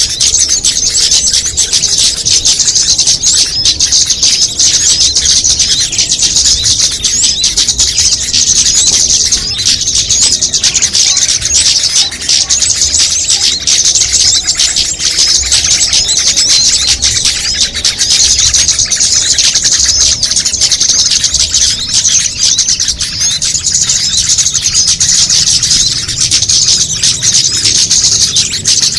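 Bird-lure (pikat) recording of small songbirds: a dense, loud, unbroken high-pitched chorus of rapid chirps and chatter, a mix of species calls meant to draw small birds in.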